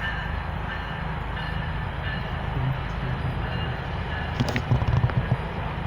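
GO Transit diesel commuter train running at the platform with a steady low rumble, and a short run of sharp knocks about four to five seconds in.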